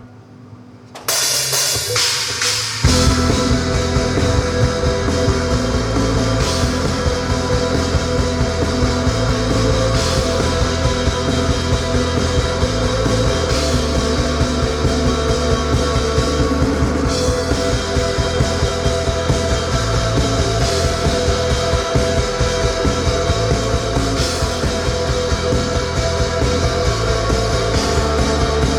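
Rock band playing live: a bright cymbal-like crash about a second in, then the full band with drum kit, bass and guitar comes in at about three seconds and plays on loudly, the instrumental opening of the song with no vocals yet.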